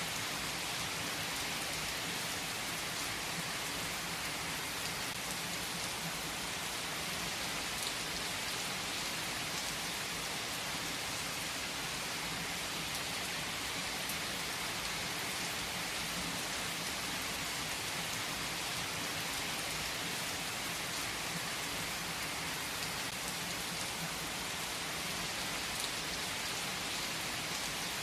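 Steady rain falling on a surface, an even hiss with a few separate drops ticking now and then.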